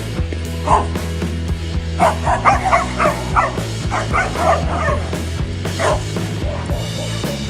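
A dog barking and yipping in short bursts, with a quick flurry of barks in the middle, over steady background music.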